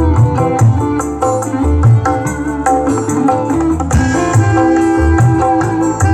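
Loud music with a steady, heavy low drum beat and a melody over it, played through a large sound system that is being tested.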